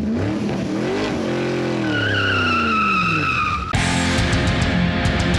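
Roll-up garage door squeaking and squealing loudly as it is moved, in wavering, rising and falling pitches, with a high squeal joining about two seconds in. The owner puts the noise down to a dry, rusted spring. Music cuts in abruptly about halfway through and drowns the door out.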